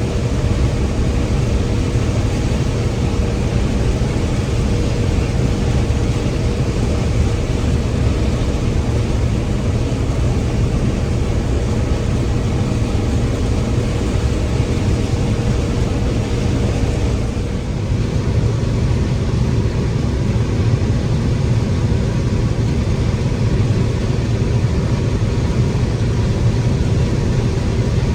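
Combine harvester running steadily while harvesting corn, a loud constant engine and machinery drone. A faint steady hum in it stops a little over halfway through, where the sound briefly dips before carrying on.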